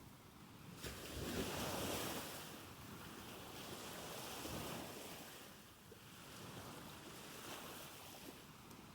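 Ocean waves washing in softly. One surge swells about a second in and another around four seconds in, then the wash eases off toward the end.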